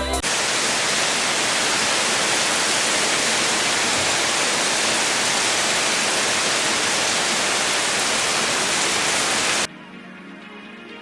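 A loud, steady, even hiss that starts abruptly and cuts off suddenly near the end, giving way to quiet music.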